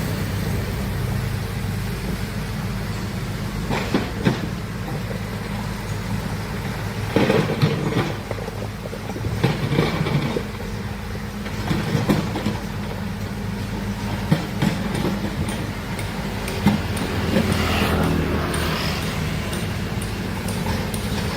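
Large excavator's diesel engine running steadily, with irregular metallic clanks and knocks from the working machine.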